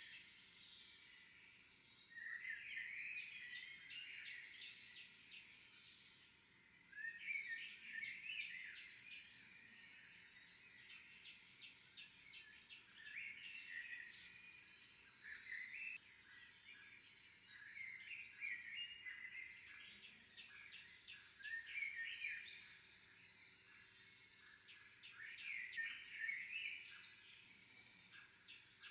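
Small songbirds singing together. Every ten seconds or so one high, thin whistle slides downward and runs into a long, fast trill. Many shorter chirps sound in between.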